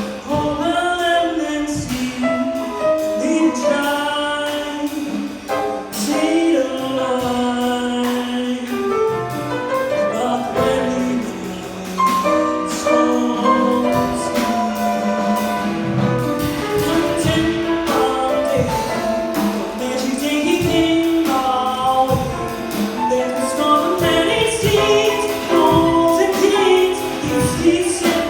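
Music: a woman singing with instrumental accompaniment, in long, bending sung lines.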